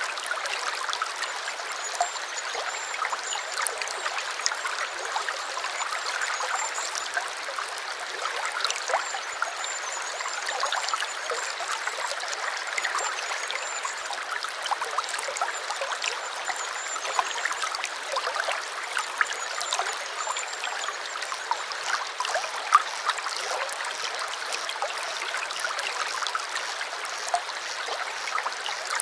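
Small stream trickling and babbling steadily, with many small splashes and gurgles. A faint, thin, high wavering tone sounds in the background for most of the first twenty seconds.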